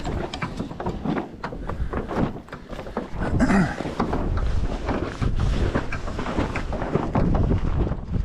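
Wind buffeting the microphone, with irregular knocks and rattles throughout.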